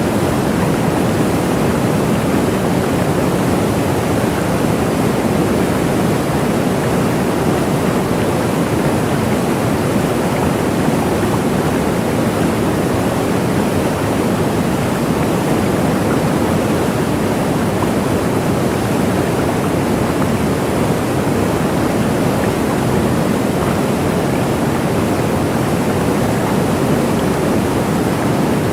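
Waterfall: water falling and rushing in an even, unbroken roar, deep and steady throughout.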